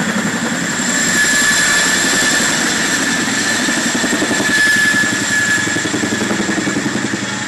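Boeing CH-47 Chinook tandem-rotor helicopter taking off, loud and continuous. A steady high turbine whine runs over the rapid chop of the rotors.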